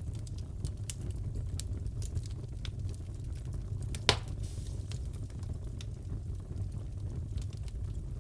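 Wood fire crackling in a fireplace: a steady low rumble with scattered small snaps, and one sharp, louder pop about halfway through.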